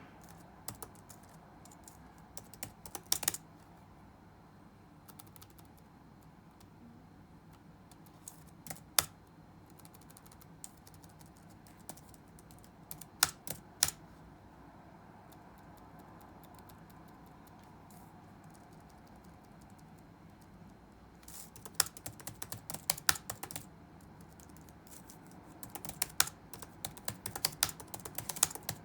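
Typing on a computer keyboard: a few scattered keystrokes for most of the stretch, then quick bursts of typing near the end, over a steady low background hum.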